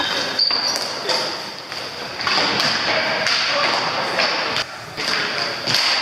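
Hockey game play in a large indoor rink: scattered knocks of sticks and ball or puck, with players calling out over a steady background hum.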